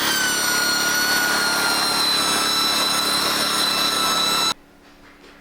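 Electric belt sander running at speed on a 4x4 wooden beam, a steady high whine that wavers slightly in pitch, grinding off gel stain that dried sticky. The sound cuts off abruptly about four and a half seconds in.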